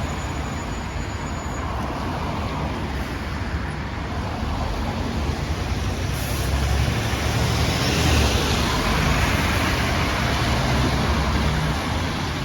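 Road traffic with buses passing: a steady rumble of engines and tyre noise that swells about halfway through as a vehicle passes close.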